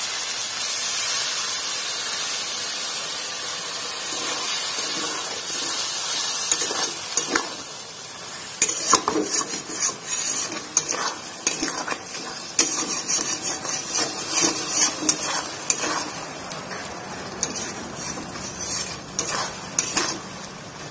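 Onion-garlic-tomato masala sizzling in oil in a cooking pan, fried until the oil has separated; from about eight seconds in a spatula stirs and scrapes the pan in quick, irregular strokes over the sizzle.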